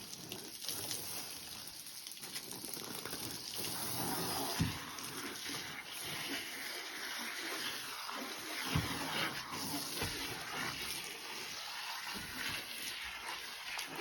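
Water splashing and sloshing as a car is washed by hand, with two brief knocks.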